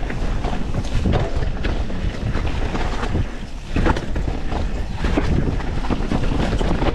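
Wind buffeting the action-camera microphone over the rumble and rattle of a YT Industries Capra 4 mountain bike descending a rough trail, with frequent knocks from bumps. The noise eases briefly about three seconds in, then a sharp knock follows.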